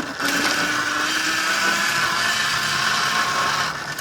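Electric dirt bike's motor and drivetrain whining steadily while riding under power.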